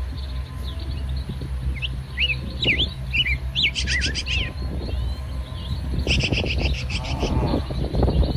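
Birds chirping and calling in short up-and-down notes, with quick rapid trills about four seconds in and again about six seconds in, over a steady low rumble.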